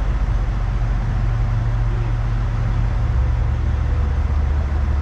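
Truck diesel engine idling, a steady low hum that drops in pitch about three seconds in.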